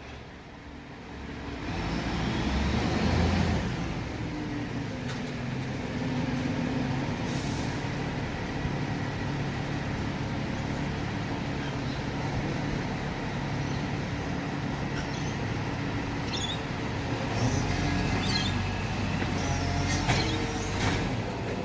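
Rubbish truck's diesel engine running steadily, growing louder about two seconds in, with a brief hiss of air about seven seconds in.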